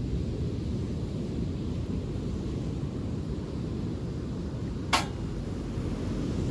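Bonfire burning on a beach with a steady low rumble of wind on the microphone, and one sharp pop of burning wood about five seconds in.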